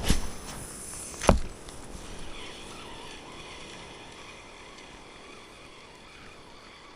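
Two sharp knocks about a second apart, the second louder, over the steady rush of river rapids.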